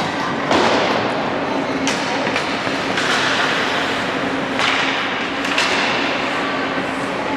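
Basketball game in a gym: scattered thuds and knocks of the ball and players on the court, over steady crowd and court noise and a constant low hum.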